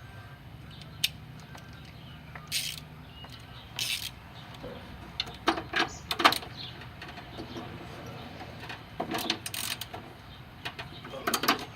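Scattered clinks and short metallic clatters of a socket and ratchet being fitted to and worked on a bolt, over a steady low hum.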